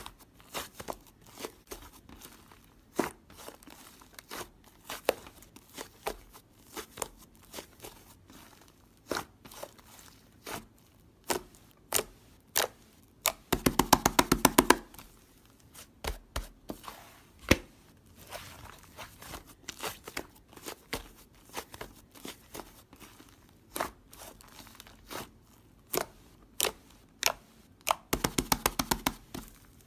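Hands playing with mint slime, making scattered sharp clicks and pops. Twice, a little under halfway and near the end, a quick rattling run of clicks comes as the slime is pressed and worked fast.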